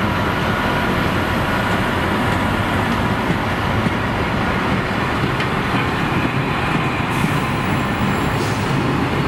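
A long freight train of covered bogie box wagons rolling past at speed close by: a steady, unbroken noise of wheels and bogies running on the rails.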